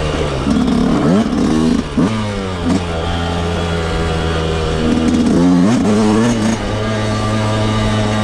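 Dirt bike engine running under riding load, revved up and down several times in quick blips: about a second in, around two seconds, and again near six seconds.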